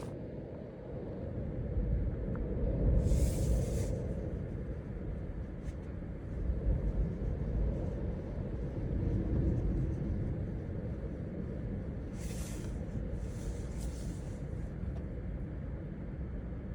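Strong gusty Santa Ana wind making a steady low rumble, with brief hissing rushes of gusts a few seconds in and again later on.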